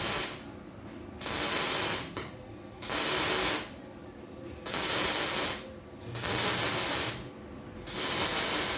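Welding in short bursts, about six runs of a second or less with short pauses between, each a loud crackling hiss.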